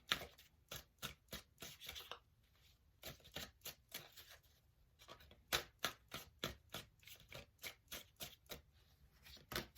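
Tarot cards being shuffled by hand: a run of quiet, irregular card slaps and flicks, with a couple of short pauses.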